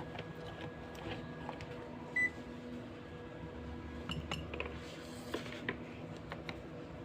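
Small washing machine switched on and running empty with a steady hum. Scattered clicks can be heard, and there is one short electronic beep about two seconds in.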